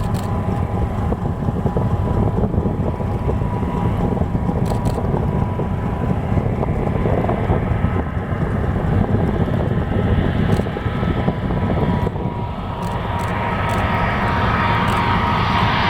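Jet airliner approaching to land, its engine whine growing louder over the last few seconds, over a low rumble of boat engine and wind.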